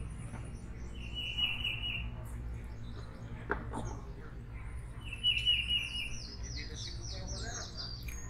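Songbirds singing: a dry trill about a second long, heard twice, and a quick falling run of high notes near the end, with scattered high chirps over a low steady hum.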